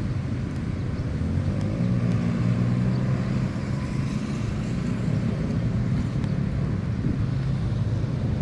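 Steady low engine hum of a motor vehicle, swelling slightly about two seconds in.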